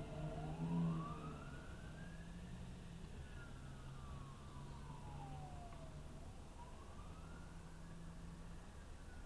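Fire truck siren in a slow wail, rising for about two and a half seconds and falling for about three, twice over, heard fairly faintly over a steady low hum.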